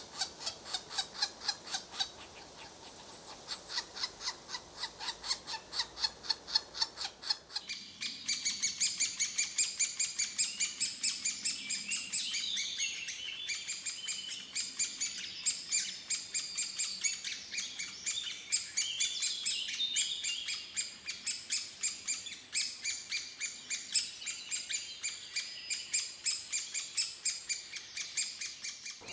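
Bird calls in fast, evenly spaced series, about four chirps a second. About eight seconds in, the sound changes abruptly to higher, brighter chirping that continues in the same quick rhythm.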